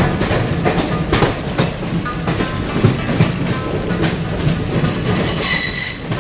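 Passenger train running on rails, wheels clattering over the rail joints, with a brief high-pitched tone near the end.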